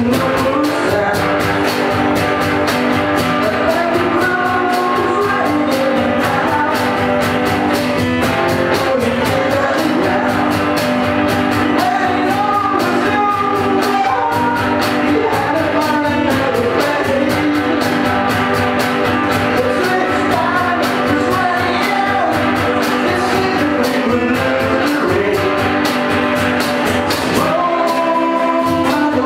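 Live rock band playing a song with a steady beat and a moving melody line over it. The low end drops out briefly near the end.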